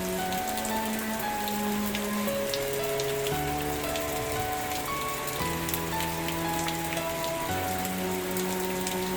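Steady rain falling, with scattered sharp taps of individual drops. Soft background music plays underneath, with long held notes that change every second or two.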